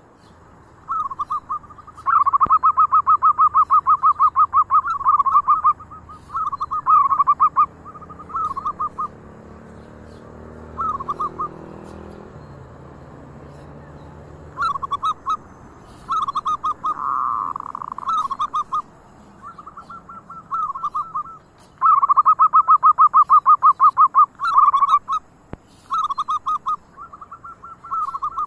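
Zebra doves (perkutut) cooing: runs of rapid, staccato trilled coo notes, repeated with short pauses. The longest and loudest runs come about two seconds in and again about twenty-two seconds in.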